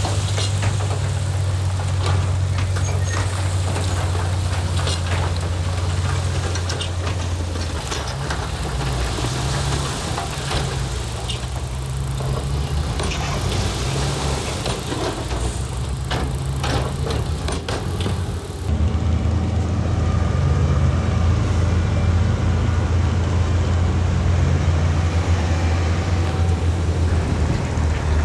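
Heavy diesel construction machinery running steadily under load, with scattered clanks and knocks over the first two-thirds. About two-thirds through, the sound changes abruptly and the engine drone becomes steadier, without the knocks.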